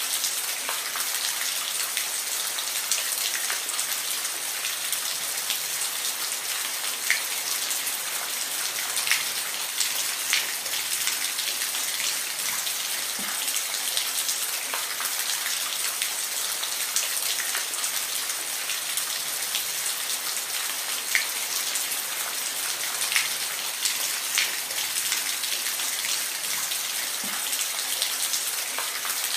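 Steady rain falling, a continuous hiss with scattered individual drops ticking louder on a surface now and then.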